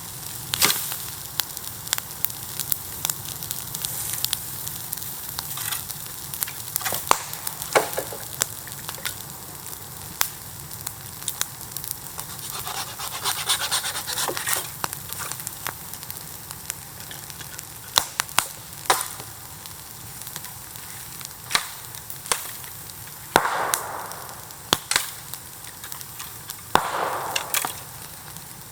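Bamboo bonfire burning, with a steady sizzling hiss and many sharp crackles and pops, and a few brief louder hisses.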